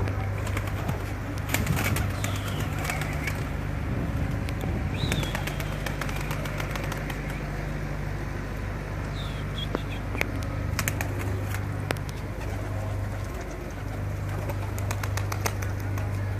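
Domestic pigeons cooing and flapping their wings, with scattered sharp clicks and a few short high chirps over a steady low hum.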